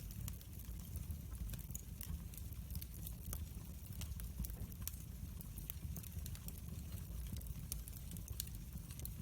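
Wood fire burning in a fireplace: a steady low rumble of flame with frequent sharp crackles and pops scattered irregularly.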